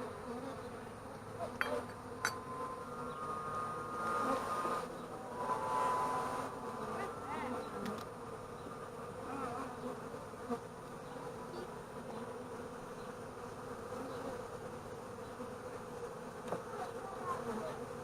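Honeybees buzzing steadily around an open hive as its frames are inspected, with a couple of light clicks about two seconds in.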